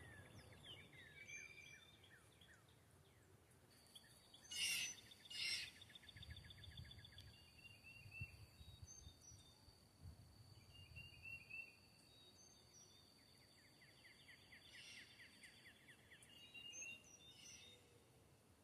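Quiet rural outdoor ambience: birds chirping and trilling, with a steady high thin tone for most of the time and a faint low rumble. Two short, loud bursts of noise about five seconds in.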